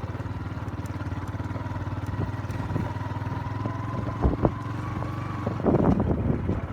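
An engine running steadily with a fast, even pulse, with two sharp knocks about four seconds in and louder, irregular sounds near the end.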